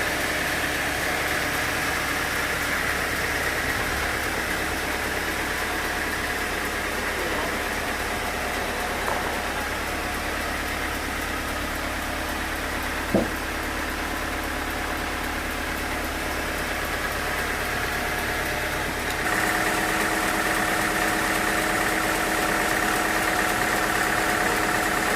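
Sawmill machinery running steadily with a constant hum and whine, not cutting. There is one sharp knock about 13 seconds in. About 19 seconds in, the sound steps up slightly louder, with a stronger high whine.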